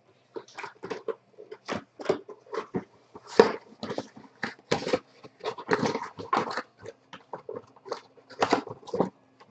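Trading card packs and cards being handled, with a quick, irregular series of short crinkles and rustles from the pack wrappers and cards.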